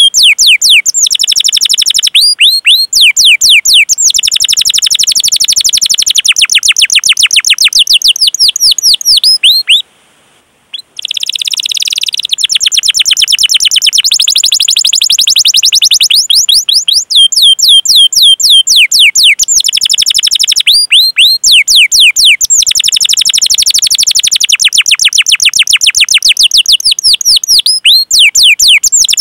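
Domestic canary singing: long rolling runs of rapid, high chirps that each fall in pitch. A short break comes about ten seconds in, followed by a brief buzzy trill, and then the chirping runs resume.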